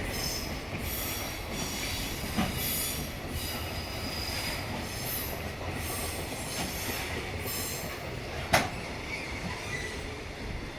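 Freight train's container wagons rolling past on the rails, with a high-pitched wheel screech that comes and goes about once a second. A single sharp clack about eight and a half seconds in, after which the screeching fades out.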